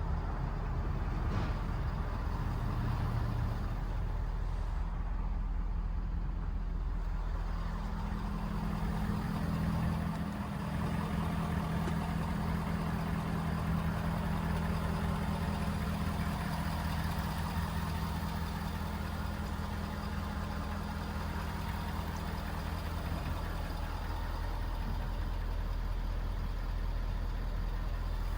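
Ford 6.7L V8 turbo diesel engine running steadily; its pitch steps up about eight seconds in and settles back down near the end.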